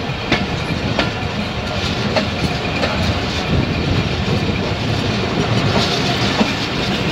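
Passenger train running on the track: a steady rumble with the wheels clicking over rail joints every second or so.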